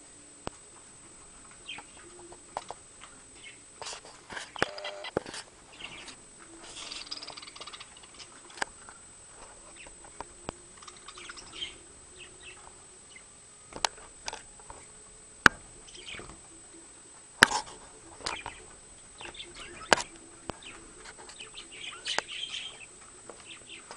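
Budgerigar chirping and warbling in short scattered bursts, with several sharp clicks in between.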